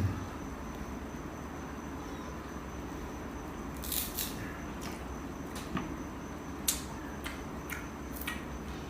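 Close-up chewing of crisp green Indian mango: a few short, sharp crunches from about four seconds in, over steady background noise.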